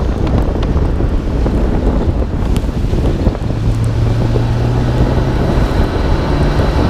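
Wind buffeting a hood-mounted microphone on a 1991 Nissan Skyline R32 GT-R driving in the rain, over the drone of its RB26DETT twin-turbo straight-six and wet road noise. The engine tone holds steady through the middle and comes in higher near the end.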